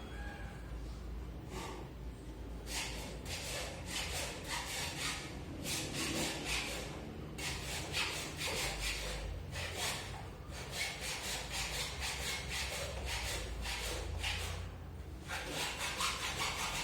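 Rapid repeated scraping or rubbing strokes, several a second, starting a few seconds in and pausing briefly near the end.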